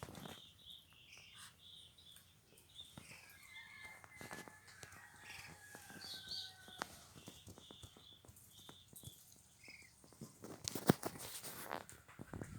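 Ducks feeding: many quick clicks and taps of bills pecking and dabbling at food, growing denser and louder near the end, with a string of short high chirps in the first part.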